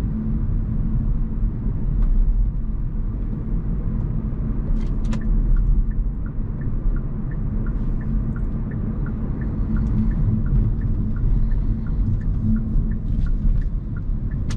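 Hyundai Kona Hybrid driving, with steady road and tyre rumble. From about five seconds in, a regular tick-tock at about three ticks a second starts: the turn-signal indicator.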